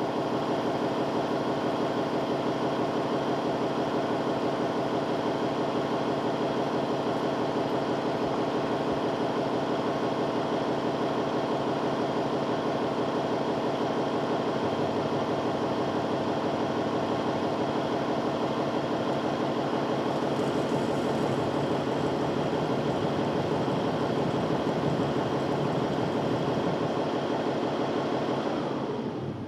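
Narwal Freo Z Ultra robot vacuum dock running its pre-clean preparation cycle: a steady motor hum with a slight change in tone about halfway through, cutting off near the end as the preparation finishes.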